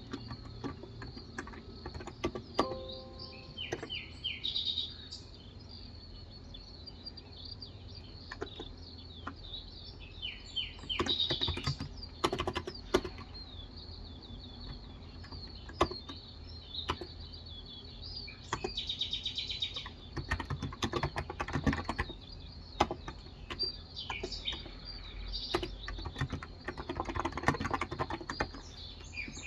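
Typing on a Cox Endeavour electro-capacitive (non-contact) keyboard with light 35 g keys, in scattered keystrokes and short runs of fast typing. Small birds chirp in the background.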